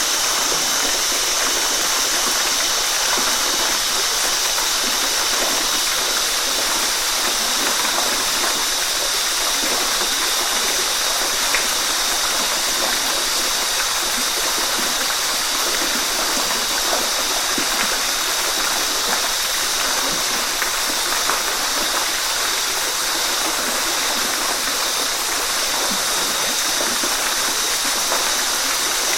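Waterfall rushing steadily, an even hiss of falling and splashing water with small gurgles underneath.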